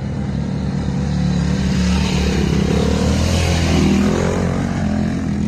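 Motorcycle engine running steadily while riding. A rushing wind noise on the microphone swells in the middle and eases near the end.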